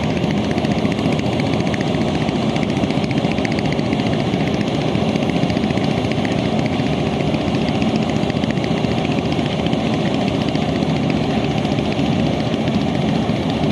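A river passenger launch's engine running steadily, a continuous engine noise with a fast, even beat.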